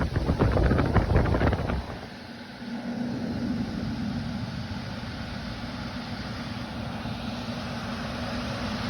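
Furnace squirrel-cage blower running as a shop fan. For the first couple of seconds its blast buffets the microphone with gusty wind noise. Then the buffeting drops away, leaving the blower's steady rush of air with a low, even hum.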